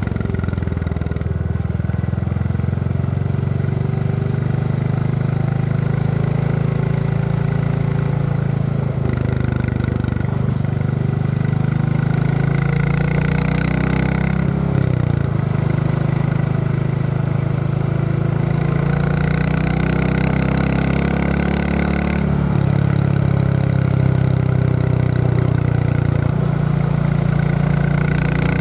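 Royal Enfield Classic 350's single-cylinder engine thumping under way, its pitch stepping up and down several times as the ride goes on, over a steady hiss of wind and road.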